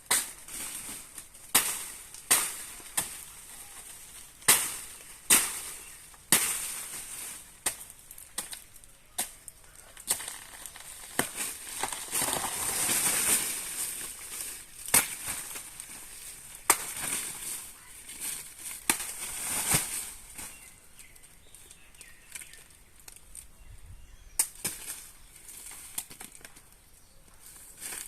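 A blade chopping into a banana plant: a series of sharp strikes at irregular intervals, with rustling of leaves between them, thinning out near the end.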